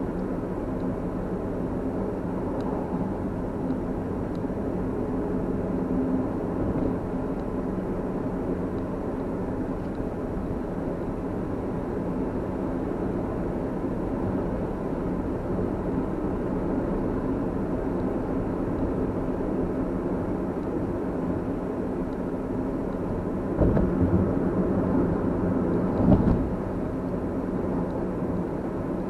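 Steady engine and road noise of a moving car, a low even hum. Two short, louder thumps come near the end, a couple of seconds apart.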